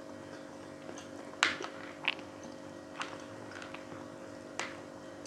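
Eating sounds of people chewing fried pork cheek: a few scattered sharp wet clicks and smacks, the loudest about a second and a half in, over a steady low hum.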